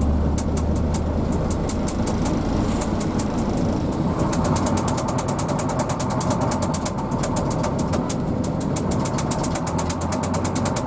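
Hino AK bus's diesel engine running, with a steady low hum and a rapid, regular ticking over it that quickens to about eight ticks a second about four seconds in.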